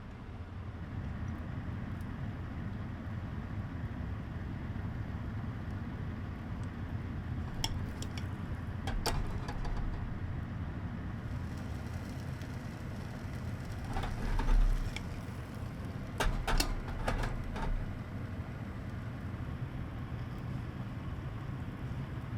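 A steady low hum, with a few light clicks partway through and a cluster of louder knocks and clinks later on.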